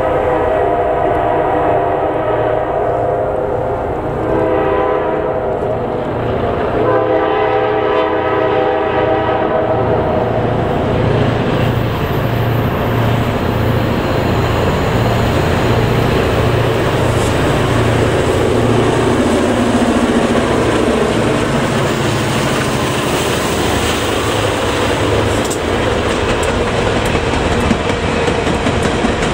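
Norfolk Southern diesel locomotives' air horn sounding three blasts for the grade crossing, the last one long. The horn then stops, and the lashup led by an EMD GP38-2 passes with its diesel engines running and the wheels clattering over the rail joints.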